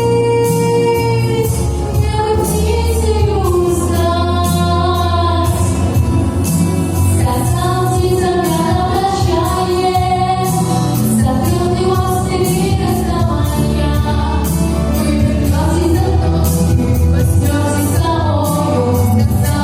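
Female vocalist singing a pop ballad over a backing track with bass and drums, holding long notes that slide between pitches.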